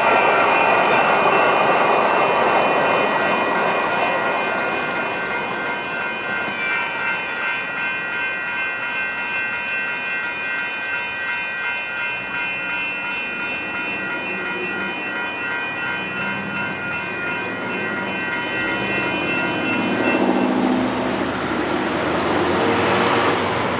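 Railroad grade-crossing bell ringing in a fast, steady rhythm, over the rumble of a Siemens Duewag U2A light rail train running past, loudest in the first few seconds. The bell stops about twenty seconds in, and passing road traffic takes over.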